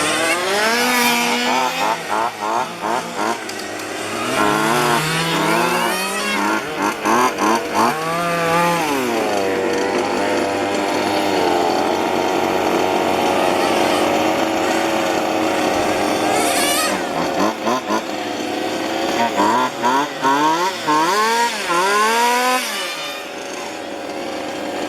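Small two-stroke petrol engines of 1:5 scale radio-controlled cars racing, several at once, revving up and dropping off again and again as the cars accelerate and brake. About ten seconds in, one engine holds a steady high pitch for several seconds before the rising and falling sweeps return.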